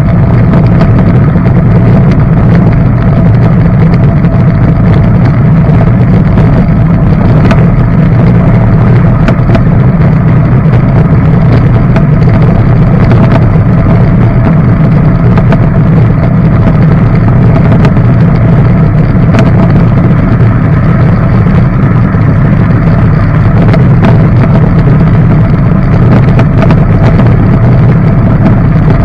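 Outboard motor of a john boat running steadily under way, loud and unchanging.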